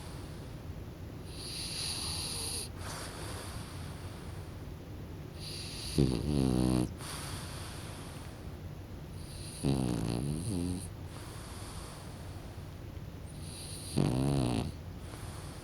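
French bulldog puppy snoring in its sleep: three loud snores, each under a second long, about four seconds apart, with softer hissing breaths between them.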